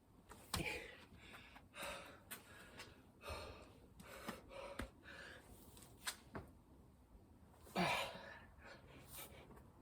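A person breathing hard and gasping between efforts during a burpee and chin-up workout, with irregular breathy bursts and a few sharp knocks, the loudest gasp a little under eight seconds in.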